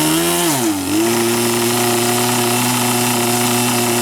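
Irvine 53 two-stroke glow engines of a twin-engine radio-control delta running. The pitch drops briefly about half a second in, comes back up within a second, and then holds steady.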